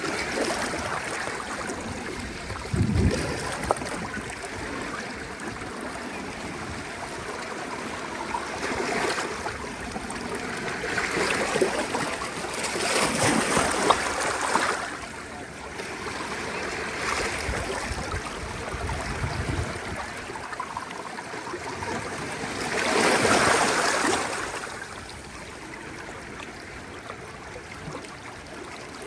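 Gentle ocean waves washing onto the shore, the surf swelling and fading every few seconds with the biggest surges about halfway through and again about two-thirds through. There is a short low thump about three seconds in.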